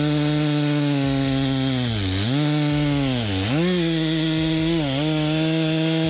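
Chainsaw engine running at high revs with a steady buzz, its pitch dipping briefly three times as the chain is loaded in a cut through wood.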